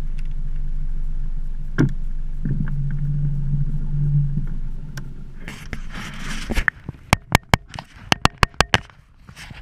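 A motor runs steadily with a low hum and cuts off abruptly about two-thirds of the way in, followed by a quick series of about ten sharp knocks.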